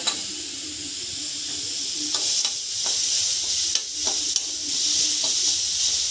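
Green peas frying in oil in a metal kadai: a steady sizzle, with a spatula scraping and clinking against the pan a few times as they are stirred.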